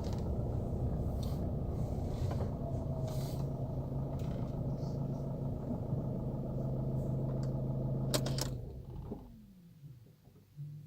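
Ford Focus 1.6 TDCi four-cylinder turbodiesel idling steadily after a cold start. About eight seconds in there are a couple of clicks, and the engine is switched off and runs down to a stop, its pitch falling away.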